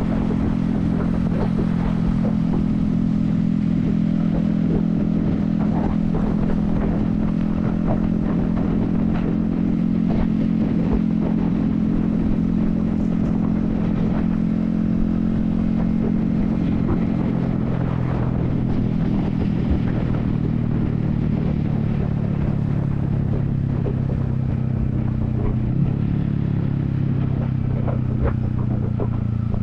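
Yamaha XSR155's 155cc single-cylinder engine running at a steady highway cruise, heard from a helmet-mounted camera over low wind rumble. The engine note drops a little about two-thirds of the way through.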